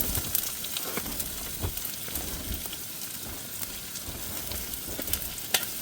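Onions frying in hot oil in a pan: a steady sizzle with scattered crackles.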